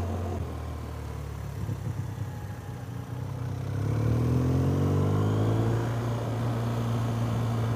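Car engine running with a low, steady hum, then accelerating from about three and a half seconds in. Its pitch rises for a couple of seconds, as when driving out of a bend, before holding steady.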